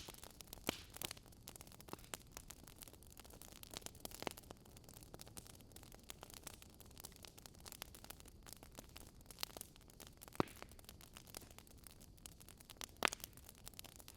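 Wood fire burning in a fireplace, the logs crackling with a steady scatter of small irregular pops and a few louder snaps, the loudest near the end.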